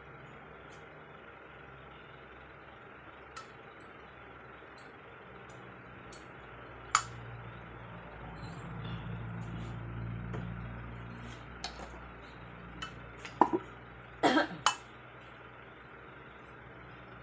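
Scattered sharp metallic clinks and taps of tools and engine parts being handled during an engine rebuild, with a cluster of clinks near the end. A low hum swells and fades in the middle.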